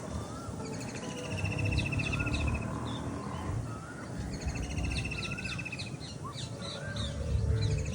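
Several birds chirping and calling together, with short whistled notes and a buzzy trill about a second long that comes twice. A low rumble sits underneath.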